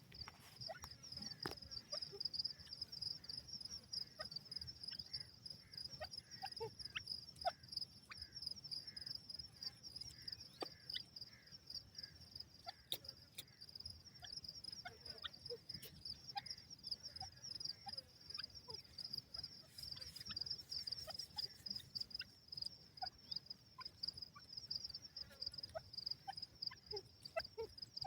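Insects trilling steadily at a high pitch in a fast, even pulse, with faint scattered clicks and short chirps.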